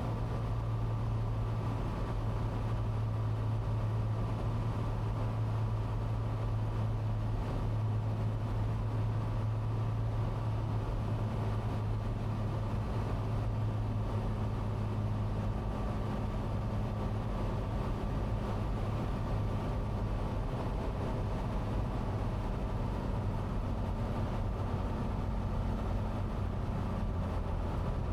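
Cessna 182T's Lycoming IO-540 engine and propeller droning steadily inside the cockpit. The deep hum drops in strength about halfway through.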